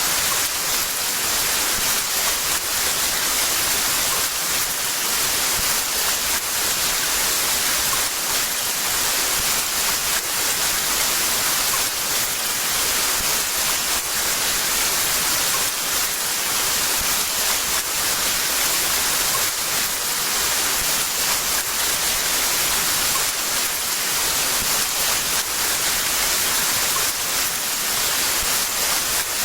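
Heavy rain pouring steadily, a dense even hiss with faint drop ticks.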